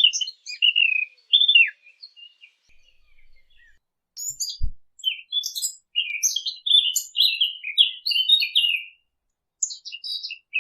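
Fig-bird (Arabic 'dakhal') song: a small warbler sings fast, varied warbling phrases with short pauses between them. A brief low thump comes about halfway through.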